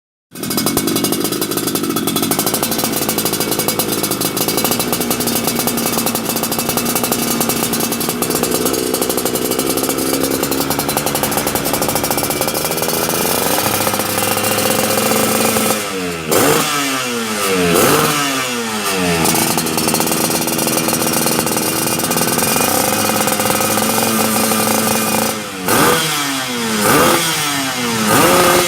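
Two-stroke motorcycle with an aftermarket racing exhaust, running steadily for about fifteen seconds and then revved in quick throttle blips, each a sharp rise and fall in pitch. The blips come in a cluster about sixteen seconds in and again near the end.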